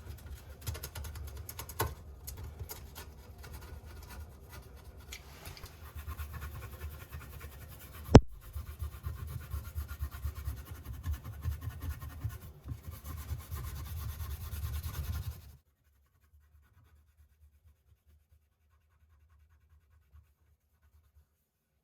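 Irregular scraping and rubbing from hand work on plumbing fittings, with one sharp click about eight seconds in. The sound cuts off suddenly about fifteen seconds in.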